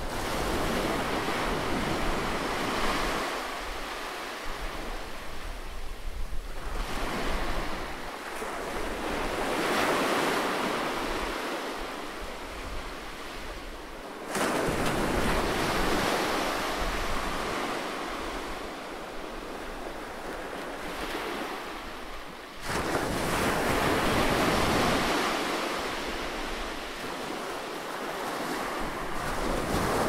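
Ocean waves breaking and washing up a sandy beach, the surf swelling and fading every few seconds. The level jumps up abruptly twice, about halfway through and again about three quarters in.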